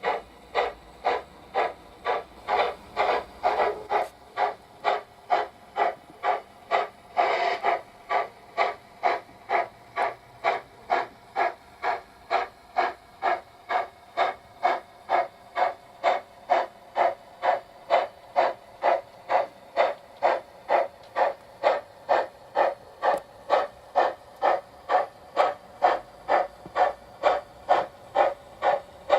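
ESU LokSound sound decoder in a Trix Big Boy model steam locomotive playing steady exhaust chuffs, about two a second, through the model's small speaker. There is a longer burst of hiss about seven seconds in.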